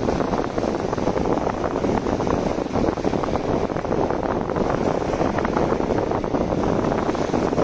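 A steady rushing noise with no change in level.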